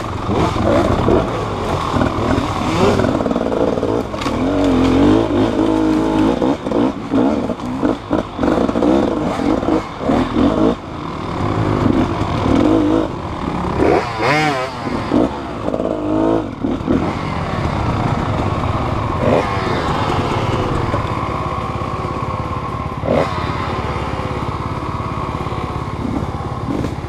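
Motorcycle engine revving and easing off again and again, its pitch wavering up and down, with clatter and knocks throughout.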